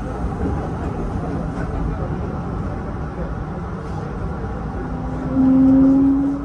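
Hanshin Railway electric train running with a steady low rumble. About five seconds in, a loud whine joins and slowly rises in pitch.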